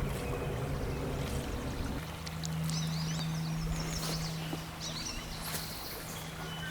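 Outdoor ambience: a steady low hum sets in about two seconds in, and birds chirp several times in the middle.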